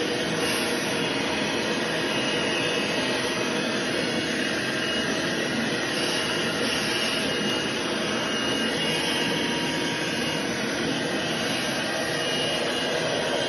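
Vacuum cleaner running steadily, sucking dust and construction debris out of an electrical cabinet box: an even rushing noise with a faint high whine.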